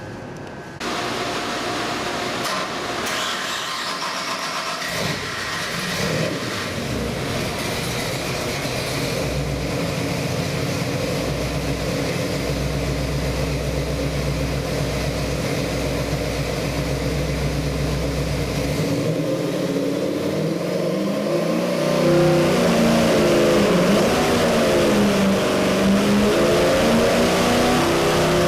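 Ford 408W stroker V8, built on a 351 Windsor block with a hydraulic roller cam and an Edelbrock 750 four-barrel carburettor, running at a steady idle. About three-quarters of the way through it is revved, its pitch rising and falling several times.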